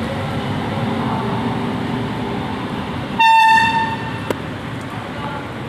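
A locomotive horn gives one short, high single-note toot about three seconds in, over steady station background noise.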